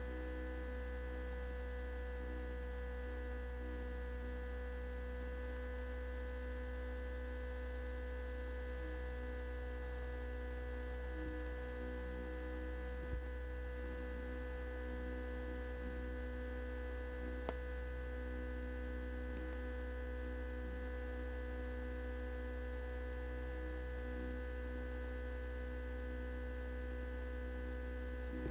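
Steady electrical hum with several constant whining tones above it. Two faint clicks a few seconds apart come around the middle.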